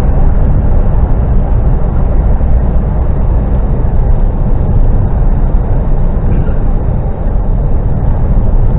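Articulated lorry on the move: steady engine and road noise heard from inside the cab.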